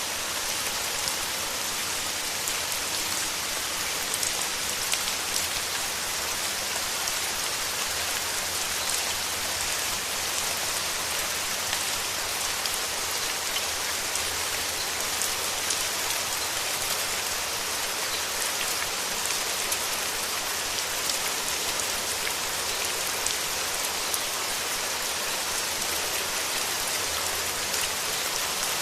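Steady rain falling, with many individual drops ticking close by through an even hiss.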